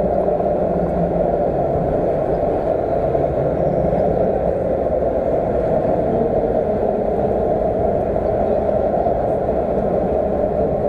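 Steady outdoor car-show background: the indistinct chatter of a crowd mixed with the hum of vehicles.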